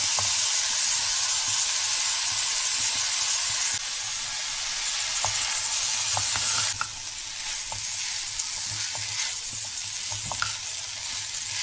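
Tofu, vegetables and boiled quinoa sizzling in oil in a wok while being stirred with a spatula, with light ticks of the spatula against the pan. The sizzle drops in level about four seconds in, and more sharply near seven seconds.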